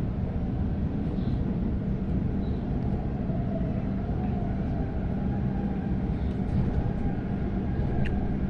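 Steady running noise heard inside a Sydney Trains Waratah electric train carriage: a constant low rumble with a faint wavering whine above it, and a brief click near the end.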